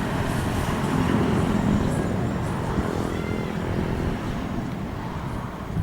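Steady low rumble of engine noise, with a few faint high chirps about three seconds in.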